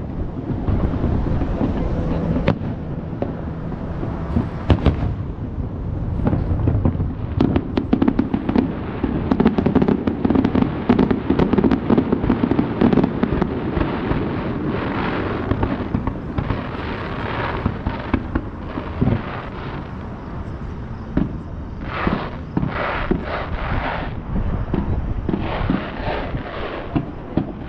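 Aerial fireworks display: a dense run of bangs and crackles over a continuous low rumble. Rapid clusters of sharp reports come in quick succession over the last few seconds.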